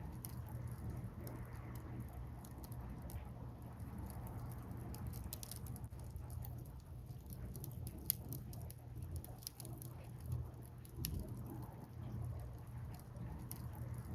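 Wood fire burning, with scattered crackles and pops throughout and one louder snap about 8 seconds in, over a steady low rush.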